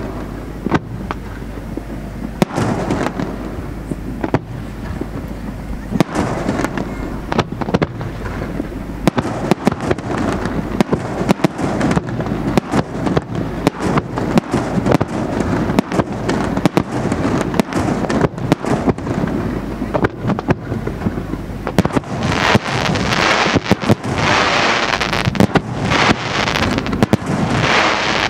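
Aerial firework shells bursting one after another, the bangs coming faster about a third of the way in. Near the end the display builds to a dense barrage, with a loud pulsing hiss under the bangs.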